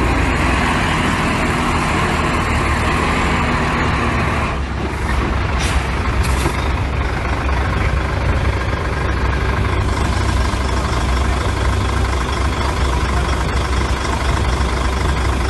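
Heavy diesel engine of earthmoving machinery running steadily, with two brief high hisses about six seconds in.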